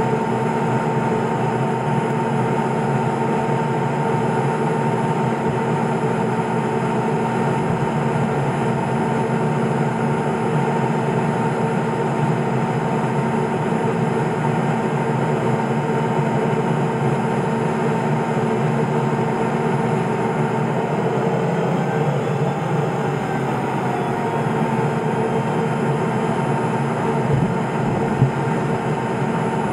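Steady cabin drone of the Cessna P210 Silver Eagle's Rolls-Royce 250 turboprop and propeller, an even noise with several constant tones. A brief knock comes near the end.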